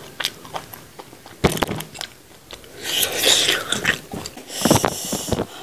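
Close-miked eating sounds: a person chewing and smacking on goat-head meat, with many short wet clicks and two louder noisy stretches about three and five seconds in.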